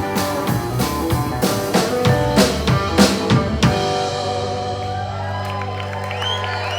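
Live rock band playing the closing bars of a song. The drum kit plays a run of hits up to a final strike a little past halfway, then the band's last chord rings out and is held.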